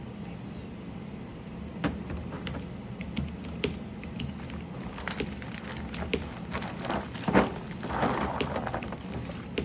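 Mechanical keyboard: irregular sharp clicks and clacks of keys and keycaps being handled. They start about two seconds in and come faster in the second half, with a brief rustle near the end.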